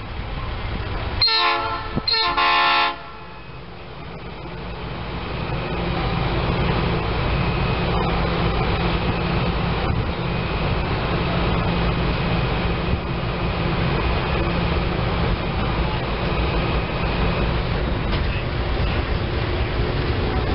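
Norfolk Southern track geometry train sounding its horn in two blasts, about a second and two seconds in. The train then rolls past with steady wheel and engine noise that grows louder over the next few seconds and holds.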